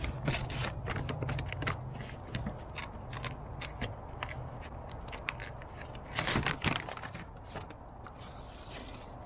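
Paper directions and packaging being handled: a run of crackles and scrapes, with a louder rustle about six seconds in.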